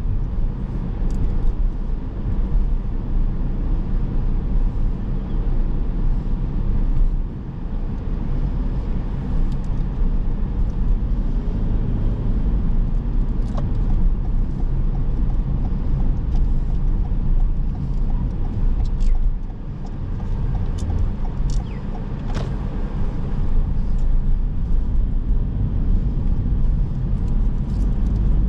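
Car driving on city streets: steady road and engine rumble, with a few brief high chirps or squeaks in the second half.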